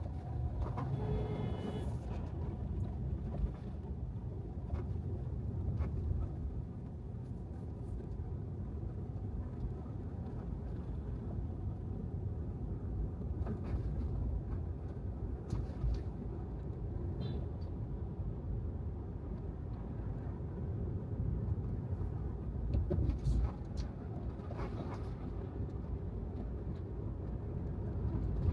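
Tesla Model 3 driving on wet city streets: a steady low road and tyre rumble with no engine note, broken by a few faint knocks from bumps in the road.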